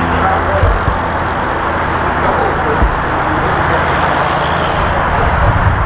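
A steady low hum of an idling vehicle engine under a dense wash of outdoor background noise and faint voices.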